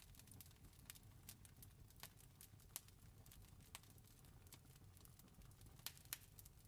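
Faint campfire crackling: irregular sharp pops and snaps, a few louder than the rest, over a low steady rumble.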